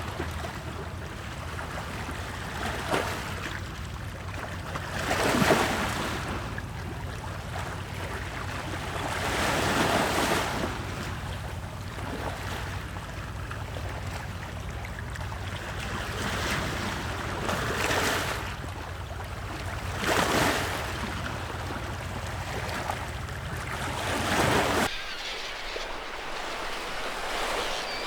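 Fire burning in a fireplace: a steady rushing hiss that swells every few seconds, with a few faint pops. A low rumble underneath cuts off suddenly near the end.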